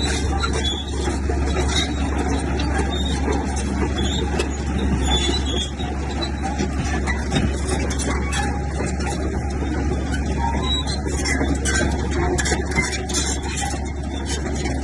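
Heavy diesel earthmoving machinery, a bulldozer, running steadily with a constant low drone and frequent short metallic clanks and rattles.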